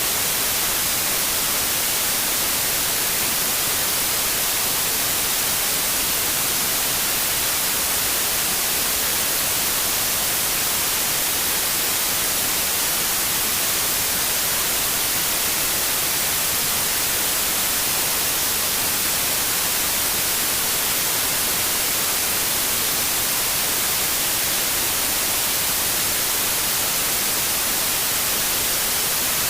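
Steady white noise: an even, unbroken hiss, strongest in the high frequencies, with no change throughout.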